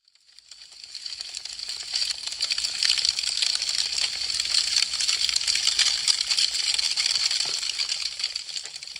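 Wood fire crackling: a dense run of small pops and snaps, swelling in over the first couple of seconds and fading away near the end.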